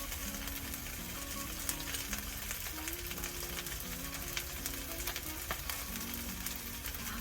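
Food sizzling and crackling as it fries in a pan: a steady hiss peppered with small pops.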